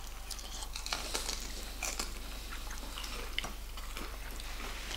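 A person chewing and biting crispy fried chicken: a steady run of small, sharp crunches and mouth clicks.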